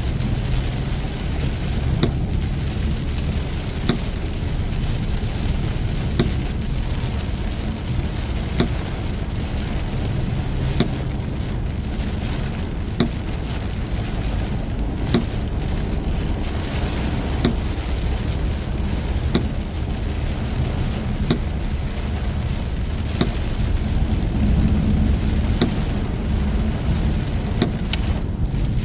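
Heavy rain on a car driving through a storm, over a steady low road rumble, with a light tick about every two seconds.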